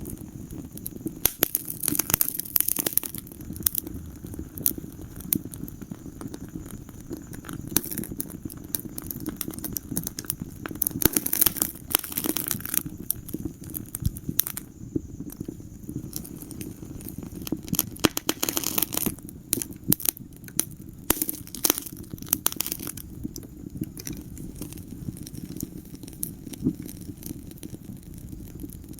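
Wood fire burning in a fireplace: a steady low rumble of flames with irregular crackles and pops throughout, in denser clusters a few times.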